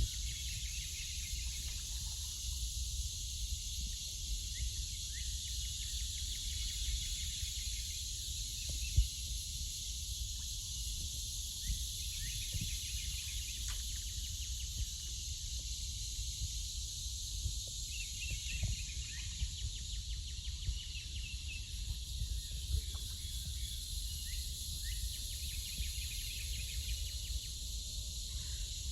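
Cicada chorus droning steadily and high-pitched, with short songbird chirps scattered through it. A low rumble runs underneath, and a single sharp click comes about nine seconds in.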